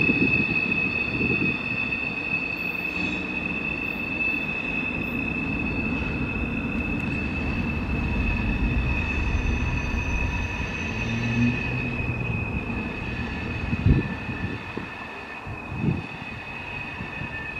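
Freight train of hopper and tank cars rolling past, its wheels squealing in a steady high pitch over the low rumble of the cars. Two short thumps come near the end.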